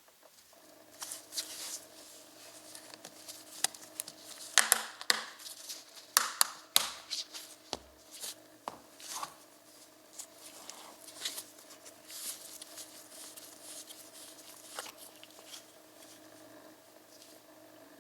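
Close-up handling noises: irregular clicks, light knocks and rustling, busiest in the middle, over a faint steady electrical hum.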